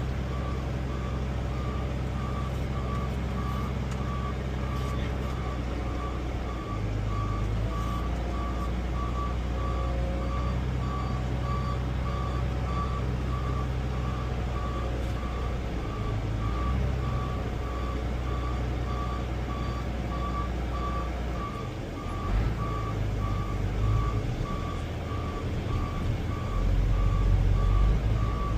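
Diesel engine of a John Deere 9400T tracked tractor running under way, with a backup alarm beeping at an even pace the whole time. The engine note shifts about a third of the way in and gets louder near the end.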